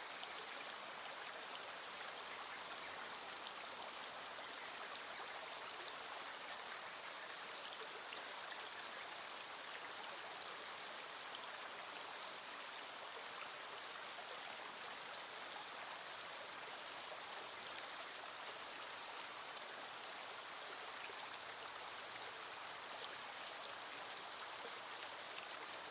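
Small stream flowing steadily: a continuous, even rush of water, with a few faint ticks scattered through it.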